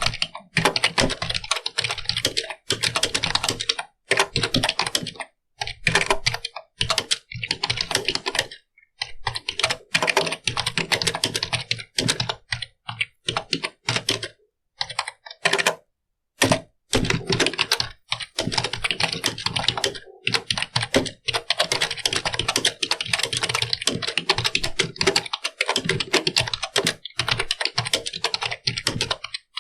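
Computer keyboard being typed on: runs of rapid key clicks broken by short pauses of a fraction of a second to about a second.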